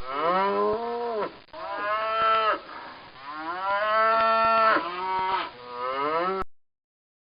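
A cow mooing several times in a row, long pitched calls that drop in pitch as each one ends and stop about six and a half seconds in.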